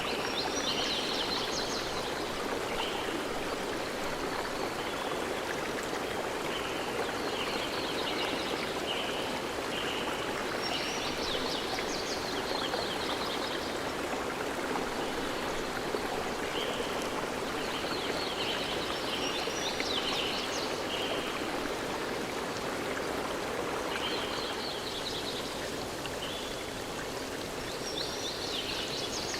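Flowing stream with a steady rush of water, and groups of high-pitched chirps repeating every few seconds over it.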